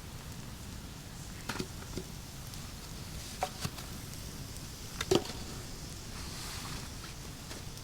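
Wood being chopped: a handful of separate, irregular strikes, the loudest about five seconds in.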